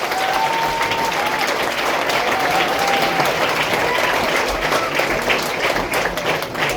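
Concert audience applauding at the end of a song, a steady dense clapping with a few long whoops heard above it.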